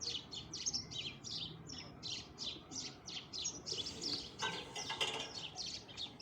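Small birds chirping steadily, a continuous run of short, high chirps at about four to five a second.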